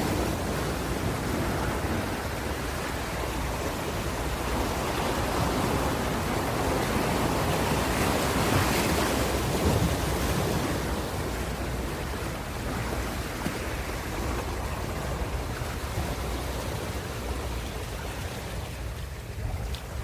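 Ocean waves breaking and washing on a shore, a continuous rushing surf that swells about eight to ten seconds in and eases near the end.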